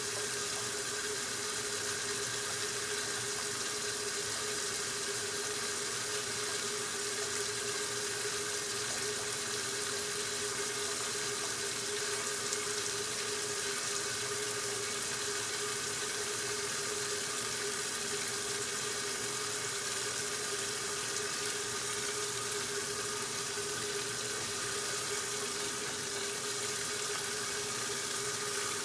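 1969 Westinghouse LAJ washing machine running mid-cycle with a steady rush of water, as when the tub is filling, over a constant hum.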